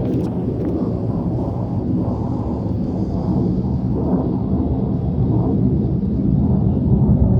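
A low, steady rumbling drone from the sky, growing slowly louder, with no clear pitch or rhythm.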